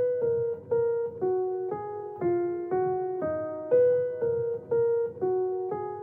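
Background music: a slow melody of single piano-like keyboard notes, about two a second, each note ringing and fading.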